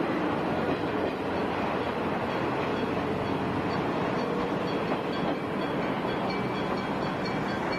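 Meitetsu trains running past on street-level track, a steady rumble of wheels and running gear.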